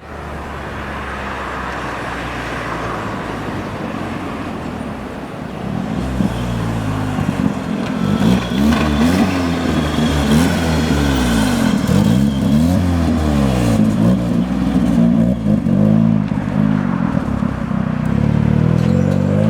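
Turbocharged Nissan QG18 inline-four engine in a Datsun 910 Bluebird idling steadily, then revved again and again from about six seconds in, its pitch rising and falling with each rev.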